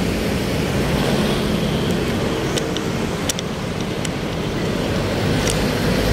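Road traffic: a steady wash of passing cars and engines, with a few faint clicks.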